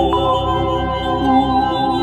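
Dark ambient synthesizer pad from Steinberg Padshop's granular and spectral synthesis: several layered notes are held while the lower notes step to new pitches.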